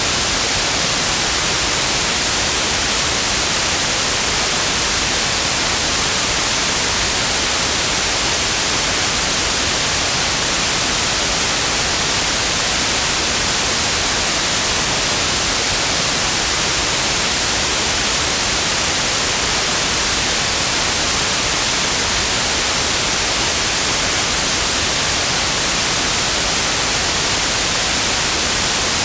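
Continuous white noise: an even, steady hiss, strongest in the treble, with no change in level.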